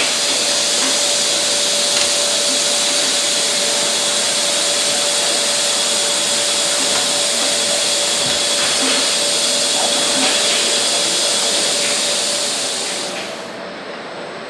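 Steady, loud hiss of rushing air with a steady whine beneath it, as from factory machinery, fading out about a second before the end.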